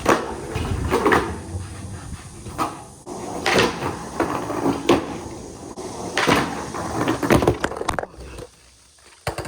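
Skateboard rolling on concrete with a run of sharp clacks and slams from tricks and landings, about seven hits. The rolling stops about a second before the end, and one last click follows.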